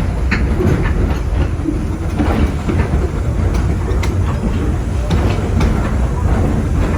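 Passenger coaches of a steam-hauled heritage train running along the track, heard from on board: a steady low rumble with scattered clicks and clacks of the wheels.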